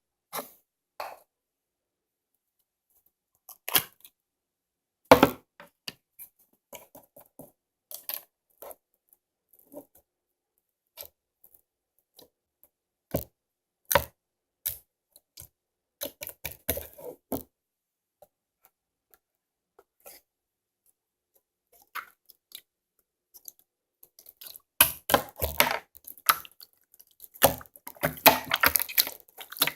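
Slime being handled by hand: scattered sticky clicks and pops with pauses between them, growing into a dense run of squishing and crackling in the last five seconds.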